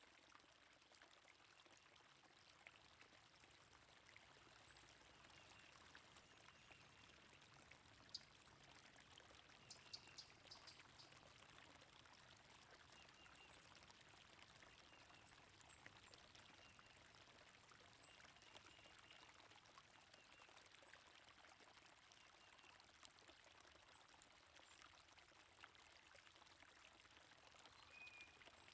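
Faint, steady flow of a stream, with birds chirping softly now and then over it.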